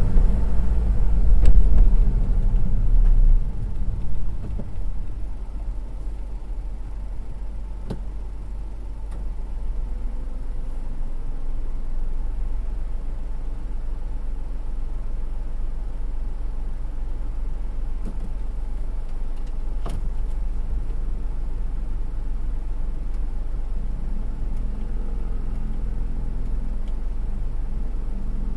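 Car driving along: steady engine and road rumble, louder for the first few seconds and then easing to an even drone, with a few faint clicks.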